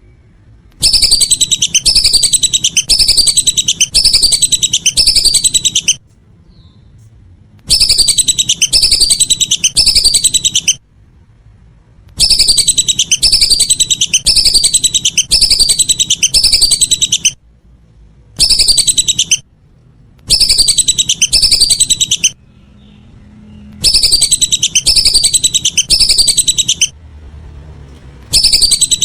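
Whistling ducks (belibis) calling: bouts of a few seconds of repeated, high falling whistles in quick succession, each bout cutting off abruptly into a short silence before the next starts.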